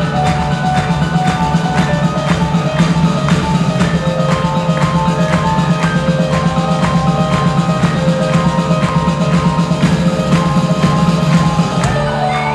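Rock band playing live, with a steady drum beat under a held low bass note and sustained melodic notes; the backing drops out near the end.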